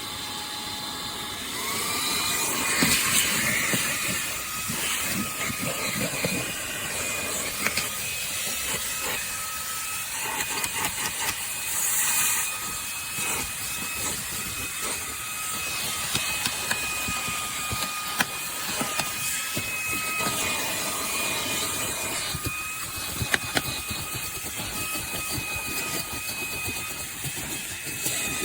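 Fanttik Slim V8 Apex cordless handheld vacuum running on its high setting, a steady hiss of airflow over a motor whine that settles at a higher pitch about a second and a half in. Scattered clicks and rattles come through over the running motor.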